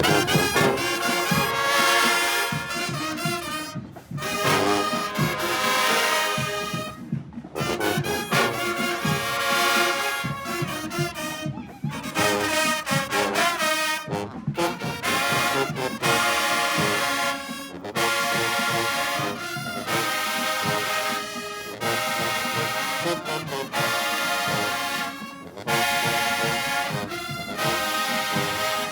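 High school marching band playing: brass horns carrying the tune in loud phrases over drums, with short breaks between the phrases.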